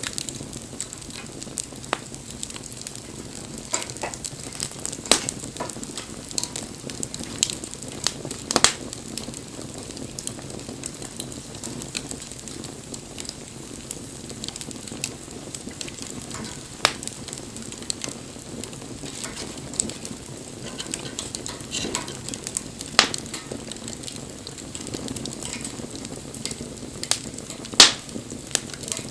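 Wood bonfire burning and crackling: a steady hiss with irregular sharp pops, the loudest pop near the end.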